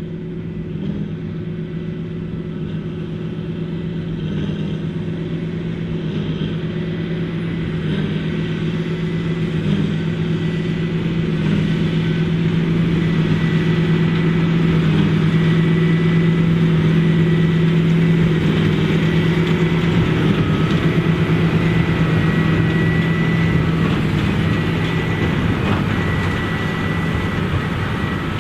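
Large farm tractor's diesel engine working steadily in the field, with a thin high whine over its hum. It grows louder toward the middle as it comes closer, then eases off a little.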